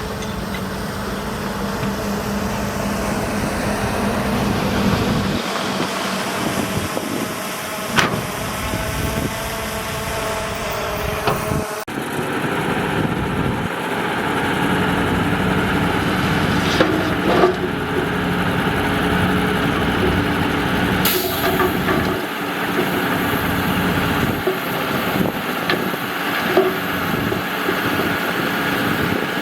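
Bulldozer's diesel engine running steadily, with a few sharp knocks. The sound changes abruptly about twelve seconds in.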